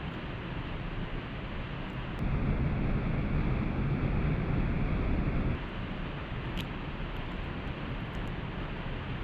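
Steady rushing of a waterfall, louder for about three seconds in the middle, with a couple of faint clicks.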